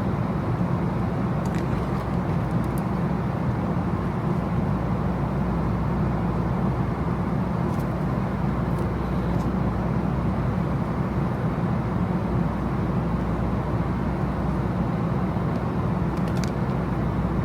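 Steady, even rumble of a vehicle's interior, heard from inside the cabin, with a few faint clicks.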